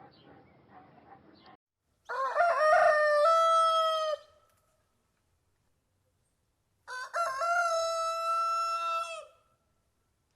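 Rooster crowing twice, each crow about two seconds long and ending on a held note.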